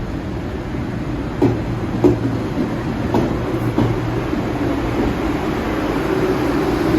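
A train running through the station with a steady rumble and hum. Its wheels click sharply over rail joints a few times in the first four seconds, the clicks coming in pairs about half a second apart.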